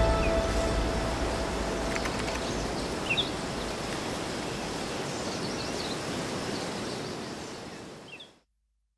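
Outdoor nature ambience: a steady rushing noise with a few short bird chirps, fading out to silence near the end. The last tones of background music die away in the first couple of seconds.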